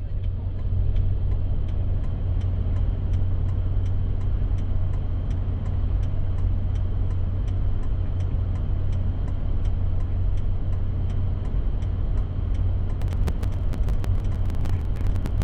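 Vehicle engine idling with a steady low hum, with a faint regular ticking about three times a second and denser clicking near the end.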